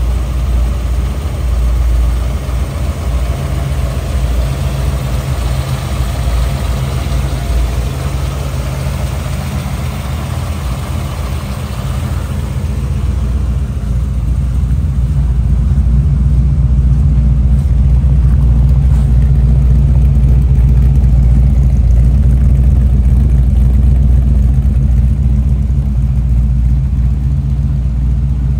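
A 1968 Holden HK Monaro's Chevrolet 327 V8 idling steadily. For the first half the engine-bay clatter and whir stand out. From about halfway on, a louder, deeper exhaust note from the twin tailpipes takes over.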